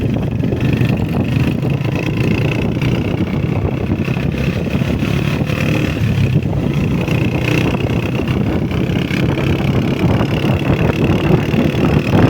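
Honda CG125's single-cylinder four-stroke engine running steadily on the move.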